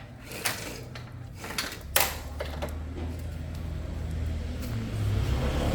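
A small motorcycle engine running with a steady low hum that grows louder over the last few seconds, with a few sharp metallic clicks and knocks in the first two seconds.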